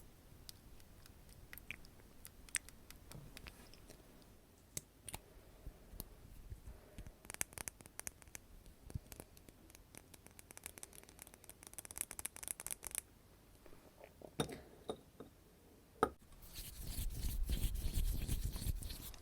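Close-miked ASMR trigger sounds: scattered soft clicks and crackles, thickening into dense crackling through the middle. Near the end come about two and a half seconds of loud rubbing or brushing noise.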